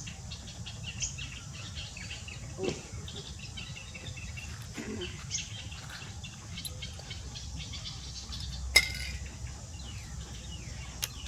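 Small birds chirping and twittering over a low steady rumble, with one sharp click a bit under nine seconds in and a fainter one near the end.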